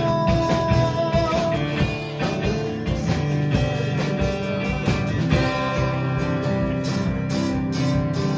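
Band playing a rock song live, an instrumental passage without singing: guitar over bass and drums.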